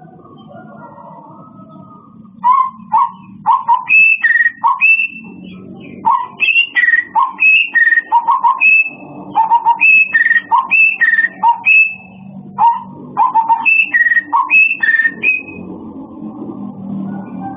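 A songbird singing loud, repeated whistled phrases, each a lower note followed by one or two higher notes, in quick runs with short pauses. It starts a couple of seconds in and stops near the end, over a low background hum.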